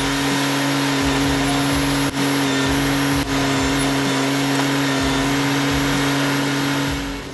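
Kubota BX25D compact tractor-backhoe's small diesel engine running steadily at constant speed while it works a tree stump, with a steady hum and two brief dips about two and three seconds in.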